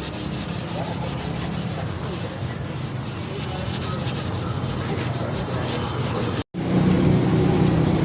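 Rusty motorcycle metal being scrubbed by hand in rapid, even back-and-forth strokes, several a second, to clean off the rust. The sound cuts out for an instant near the end, then carries on over a louder low hum.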